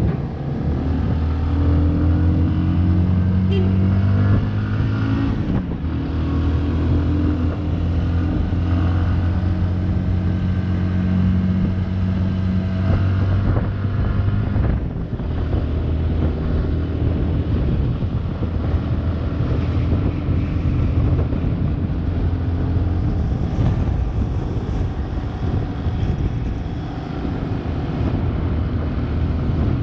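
Motorcycle engine running while riding. Its pitch rises and falls with the throttle in the first few seconds, then holds fairly steady.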